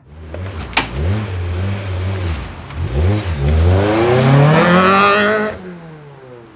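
Honda K24 four-cylinder engine in a CR-V revving in a few short blips, then accelerating hard with its pitch climbing for about two seconds before it drops and fades near the end.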